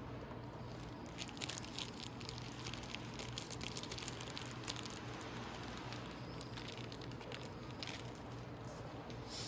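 Faint clicks and taps of small plastic covers being handled and pressed into place on a motorcycle, mostly in the first half and again near the end, over a steady low hum.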